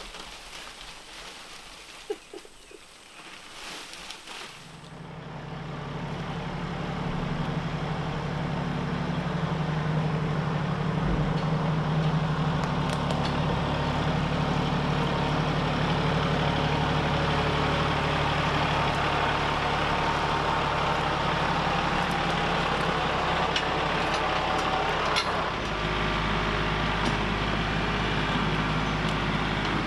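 Engine of a motor vehicle comes in about five seconds in, grows louder over a few seconds, then runs steadily, its note shifting slightly near the end.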